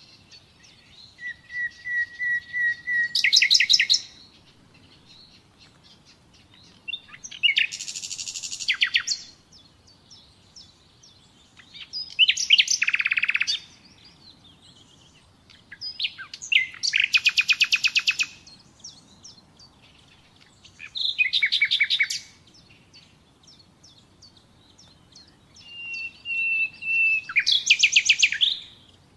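Common nightingale singing in six separate phrases a few seconds apart, each a rapid run of repeated notes. The first and last phrases open with a series of whistled notes that build up in loudness.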